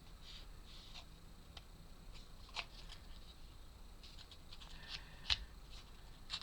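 Light clicks and scrapes of laser-cut wooden puzzle pieces being handled and pressed together, with a sharper knock about five seconds in.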